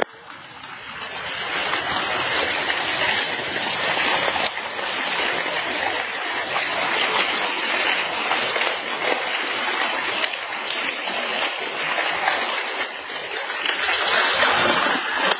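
Heavy flow of water gushing out from inside a tree, a steady splashing rush that builds over the first couple of seconds and then holds.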